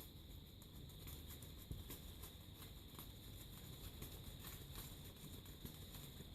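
Near silence: faint room tone with scattered soft ticks and taps.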